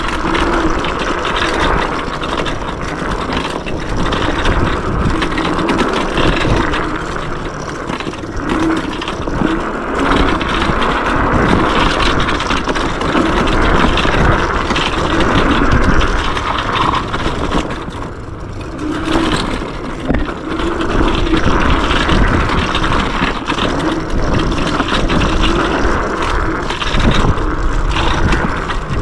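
Yume X11 electric scooter riding fast over a packed dirt trail. Steady rushing ride noise from wind and tyres, with frequent knocks and rattles from bumps. It eases off briefly about two-thirds of the way through.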